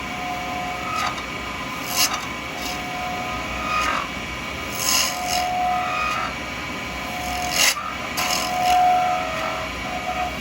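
A 12mm round carbide cutter shaving a spinning acrylic pen blank on a lathe, in a series of short cutting passes over the steady hum of the lathe. Some passes carry a brief whine.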